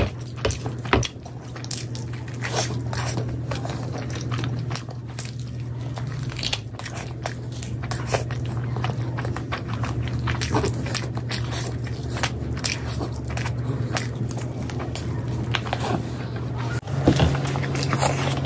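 Close-miked eating by hand: wet chewing and lip smacking of rice and curry, with soft squelching as fingers mix rice and gravy on the plate, over a steady low hum. About a second before the end it gets louder as a big handful goes into the mouth.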